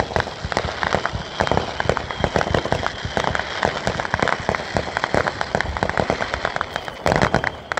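Aerial fireworks going off in quick succession: a dense, unbroken run of bangs, pops and crackles, with a louder cluster of reports near the end.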